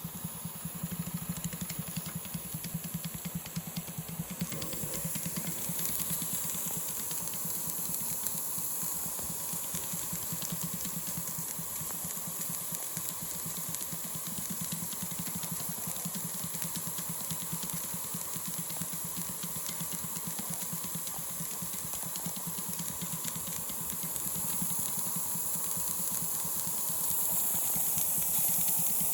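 Single-cylinder double-acting model steam engine running steadily under steam: a very fast, even chuff of exhaust beats over a continuous steam hiss, getting slightly louder near the end.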